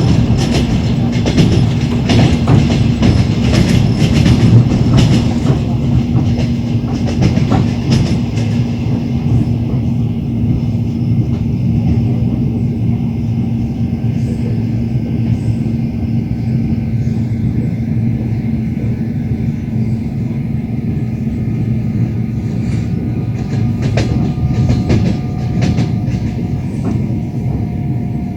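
Train wheels clattering over rail joints under a steady running rumble, heard from a moving train. The clicks come in clusters, thickest in the first several seconds and again near the end.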